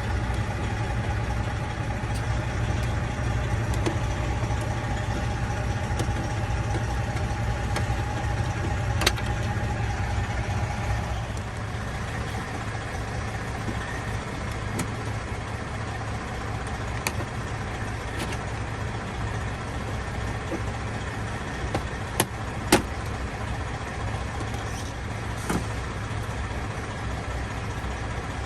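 Steady low hum of an idling diesel truck engine, with a few sharp clicks and knocks from hand tools and plastic dash trim as screws are taken out.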